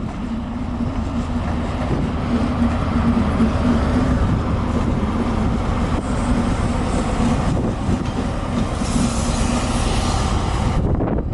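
A diesel train running past on the line: a loud, steady rumble with a low hum through it, growing louder over the first few seconds and stopping abruptly near the end.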